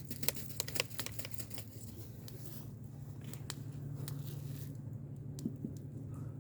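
Rustling and sharp clicking handling noises, thickest in the first two seconds, over a steady low hum.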